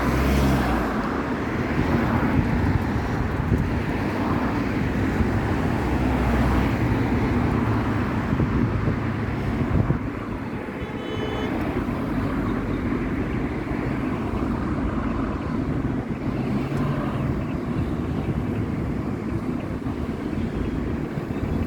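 Steady road and traffic noise heard from a bicycle ride along a city road, with the loudness easing slightly about halfway through.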